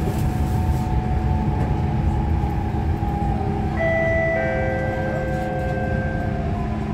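Inside a Siemens C651 train car braking into a station: a steady rumble of wheels on rail under a traction-motor whine that slowly falls in pitch. About four seconds in, the car's two-note descending chime sounds, the second note held for about two seconds; this is the chime that comes before the station announcement.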